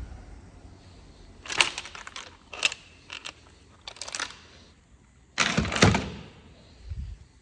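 Tools and metal parts being handled: a string of separate clattering knocks, the loudest and longest clatter about two-thirds of the way in, followed by a dull thud near the end.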